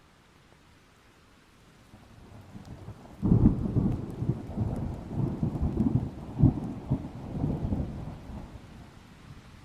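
A thunderclap. A low rumble builds about two seconds in and breaks into a sudden loud crack about a second later. It rolls on in several deep peals for about five seconds before fading, over a steady hiss of rain.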